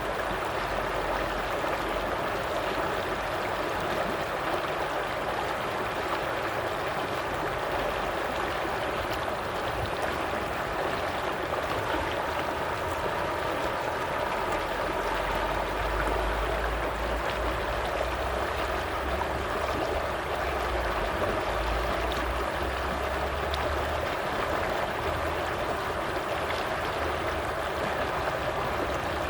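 Stream water running steadily, with a low rumble underneath that swells for several seconds midway.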